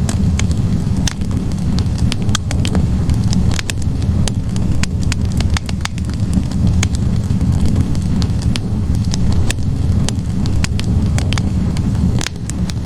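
Wood fire burning in a fireplace: logs crackling and popping in many sharp, irregular snaps over a steady low rumble of the flames.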